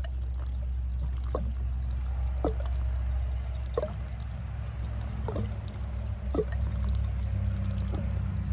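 Water draining from an opened PVC water line, with drops falling into standing water about once a second over a steady low hum.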